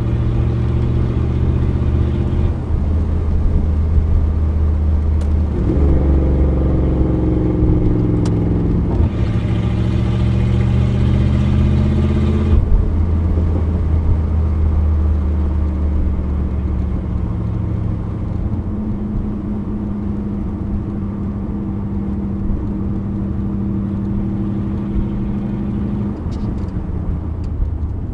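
1987 Pontiac Firebird Trans Am's 5.7-litre TPI V8, heard from inside the cabin while driving. The engine note climbs from about six seconds in, drops back at about nine seconds, and climbs again. It then eases to a steady, lower cruise for the rest of the time.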